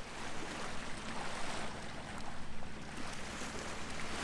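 Water rushing along the hull of a sailboat under way, swelling and easing, with a steady low hum underneath.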